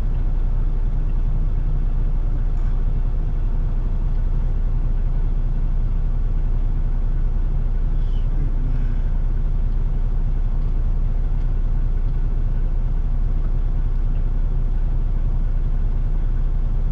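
Semi-truck's diesel engine idling steadily, heard from inside the cab as an even low rumble.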